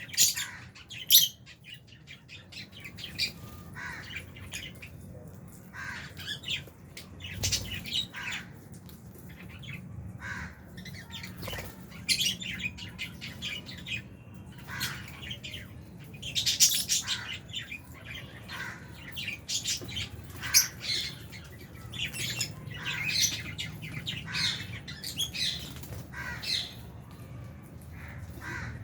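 Flock of lovebirds chirping and squawking: many short, sharp, high calls overlapping with no pause, louder in clusters about halfway through and again later.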